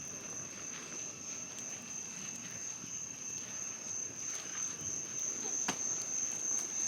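Crickets trilling in a steady, continuous high-pitched drone, with one sharp click near the end.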